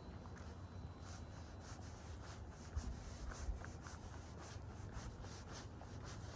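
A walker's footsteps scuffing on the street at an even pace, about two steps a second, over a steady low rumble. Two low thumps come near the middle.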